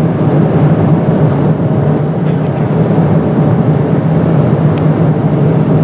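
Steady cabin drone of a Boeing 777-200ER airliner in cruise: engine and airflow noise with a strong low hum, unchanging throughout.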